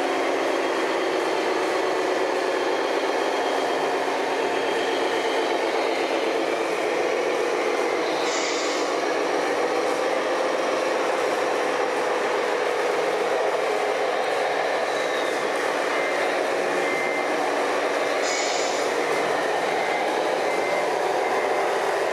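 Steady whirring and buzzing of radio-controlled model trucks' electric motors and gearboxes running, with two short hisses about eight and eighteen seconds in.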